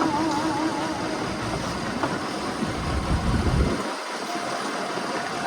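A fishing boat at sea: steady engine and wind noise, with a low rumble that cuts off sharply about four seconds in. A brief wavering tone is heard in the first second.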